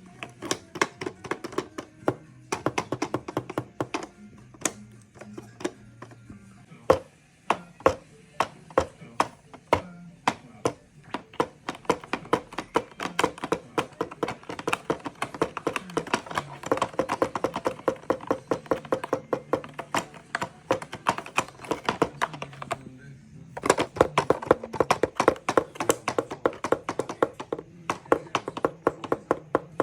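Rapid, irregular plastic clicking and tapping from a mole-catcher cat toy in play, with a simple tune running underneath; the clicking breaks off briefly twice near the end.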